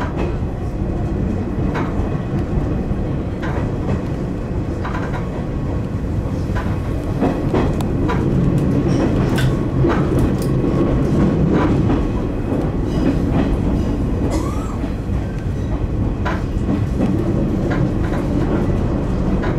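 Izuhakone Railway Daiyuzan Line electric commuter train running along the track: a steady rumble with irregular clicks and knocks of the wheels over the rails, a little louder midway through.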